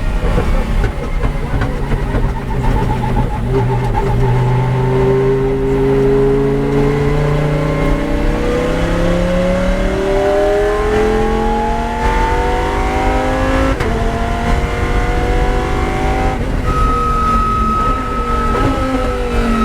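Lamborghini Huracán race car's V10 engine under hard acceleration, its pitch climbing through the gears and dropping back at two upshifts in the second half. A steady high whine joins near the end.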